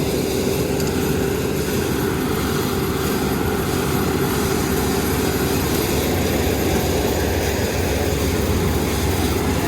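Kubota ER470 combine harvester's diesel engine and threshing machinery running steadily, with a steady whine that fades out about six seconds in.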